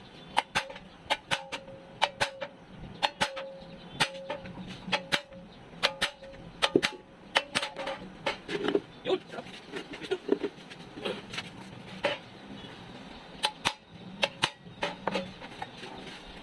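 Hammer blows in an irregular series, about two sharp knocks a second, with short pauses between runs.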